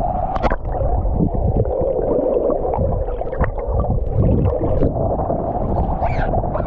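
Ocean surf churning and sloshing right around the microphone, muffled, with a steady low rumble and a few sharper splashes.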